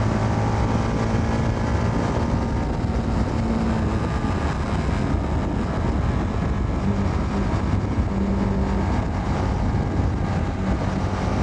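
Motorcycle engine running at a steady road speed, heard from the rider's helmet with road and wind noise; the engine note holds steady throughout.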